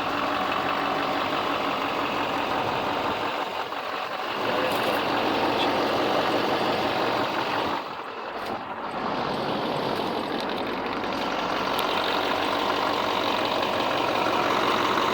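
LBZ Duramax 6.6-litre V8 turbodiesel in a 2006 Chevy 3500 idling steadily.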